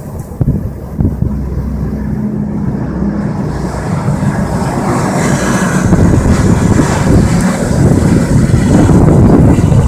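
Strong wind buffeting the microphone, with a steady vehicle engine hum underneath that grows louder toward the end.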